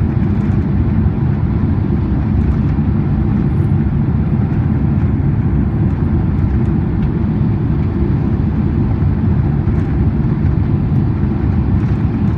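Steady cabin noise inside a Boeing 767-400ER airliner: a loud, even low rumble of engines and airflow with a fainter hiss above it.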